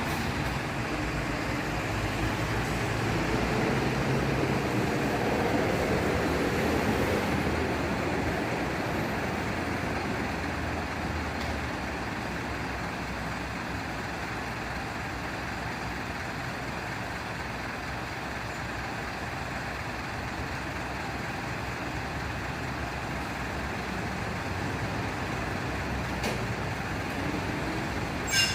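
A heavy vehicle's engine running steadily amid street traffic noise, swelling a little a few seconds in, with one short sharp click near the end.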